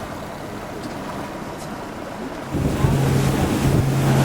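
Motorboat engine coming in about two and a half seconds in and settling into a steady low hum, with wind and water noise throughout.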